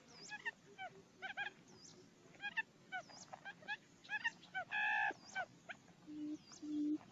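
Recorded quail decoy call: short, hooked, whistled calls repeating about once a second. A low hooting call begins in short pulses near the end.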